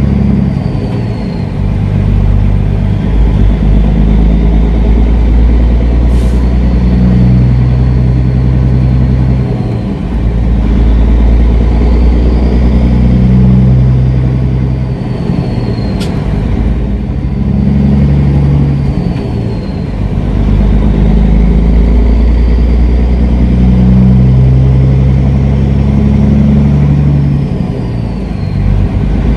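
Kenworth W900L semi-truck engine running under way, a loud low rumble whose pitch and loudness rise and fall every few seconds. A sharp click sounds twice, about 6 and 16 seconds in.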